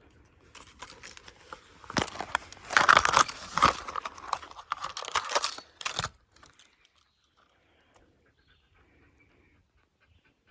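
Rustling and crunching noises come in a cluster of bursts lasting about four seconds, then fade to quiet.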